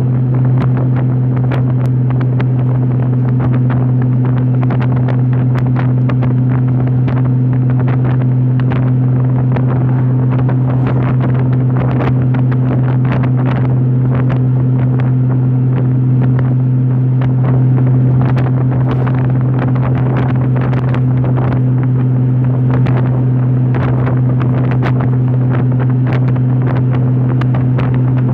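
Honda motorcycle cruising at about 60 mph: a steady engine drone holding one pitch, with wind buffeting the microphone.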